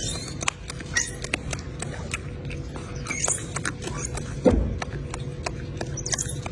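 A monkey's short high squeaks, four or so, with one louder call falling in pitch about four and a half seconds in, over a steady patter of small clicks.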